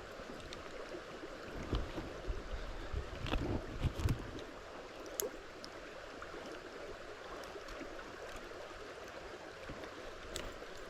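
Stream water running steadily over rocks, with a few knocks and splashes about two to four seconds in and a couple of sharp clicks later.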